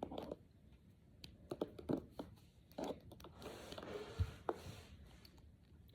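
Small plastic Brain Flakes discs being handled and pushed together: irregular light clicks and rustling, with a dull thump about four seconds in.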